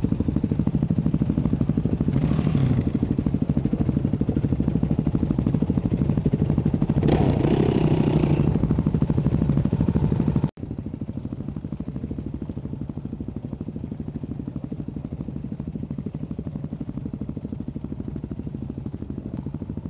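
Enduro dirt bike engine running while riding a trail, rising in pitch twice in the first half as the throttle is opened. About halfway through the sound cuts suddenly to a quieter, steady engine running.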